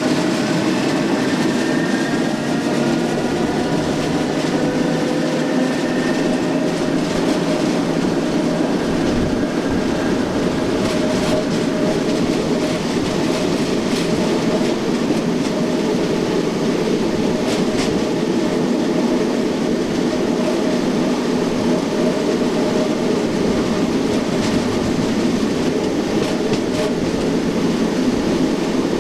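SNCB AM80 electric multiple unit pulling away: its traction motors whine, rising in pitch over the first few seconds, then settle into steady running noise. A few sharp clicks of the wheels over rail joints come through.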